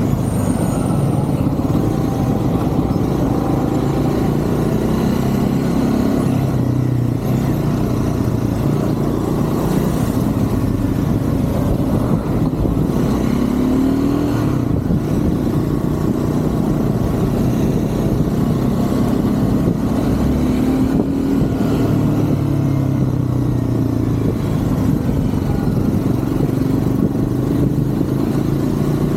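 Triumph Scrambler 400 X's single-cylinder engine running under way, its revs rising and falling several times as the bike accelerates and eases off.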